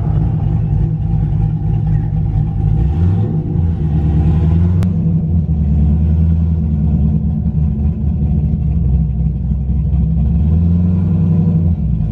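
A car engine running at a steady idle, with a loud, deep rumble. There is a single sharp click about five seconds in.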